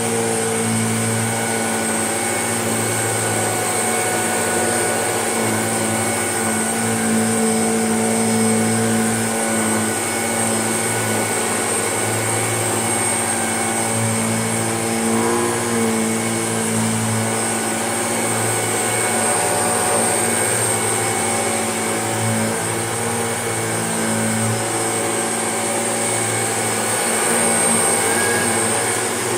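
Shark vacuum cleaner running steadily on carpet, a constant motor drone with a high whine, as it goes back over a carpet already cleaned by another machine.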